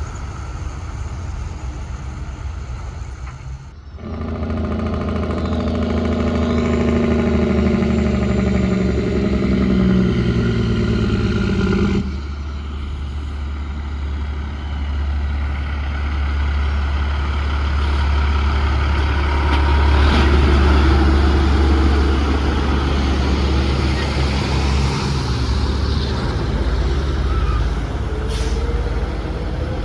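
Diesel semi-truck engines running and pulling past, a low, steady rumble that changes abruptly about four and twelve seconds in, with a short hiss of air near the end.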